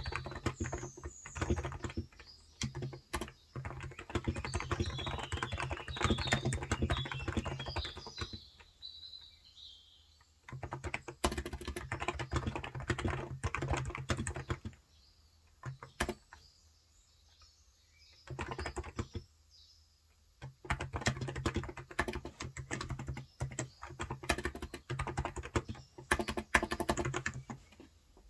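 Fast typing on a Cox Endeavor 35 g capacitive (Topre-style) tenkeyless keyboard, coming in bursts of keystrokes broken by a few pauses of one to three seconds. Birds chirp in the background during the first ten seconds or so.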